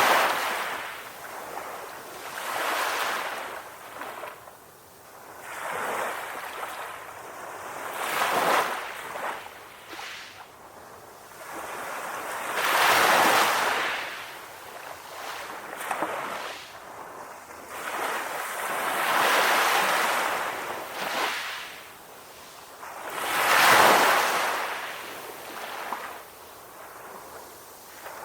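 Calm ocean waves washing onto the shore: a rushing surf hiss that swells and fades every few seconds, about eight surges, some louder than others.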